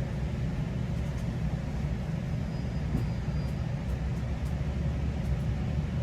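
Steady low rumble of a GO Transit commuter train running between stations, heard from inside the passenger coach, with a few faint light clicks.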